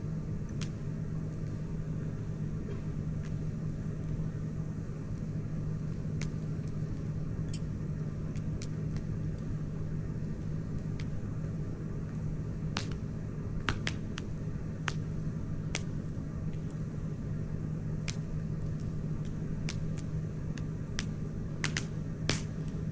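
Wood campfire crackling: sharp pops and snaps at irregular intervals, about fifteen of them, several close together in the second half, over a steady low rumble.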